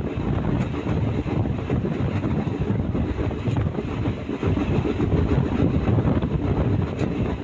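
Passenger train running at speed, heard from an open coach door: a steady rumble of wheels on the track with wind buffeting the microphone.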